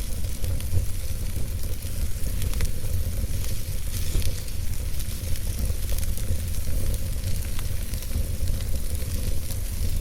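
Campfire burning: a steady hiss and low rumble with scattered crackles and pops.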